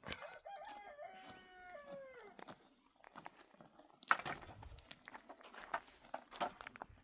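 Rooster crowing once: a stepped call of about two seconds that ends in a falling glide. Scattered short knocks and rustles follow.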